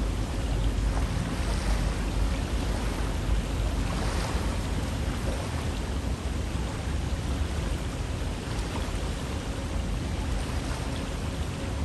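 River water flowing steadily, a continuous rushing with a deep low rumble.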